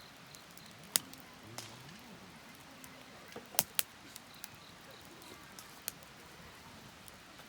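Wood fire crackling: irregular sharp pops over a faint hiss, the loudest about a second in and a quick pair near the middle.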